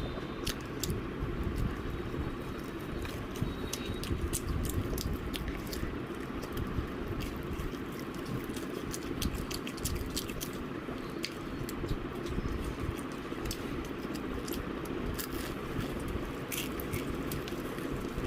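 A person chewing and biting into KFC fried chicken, with many irregular crisp crunches and clicks over a steady low rumble of chewing.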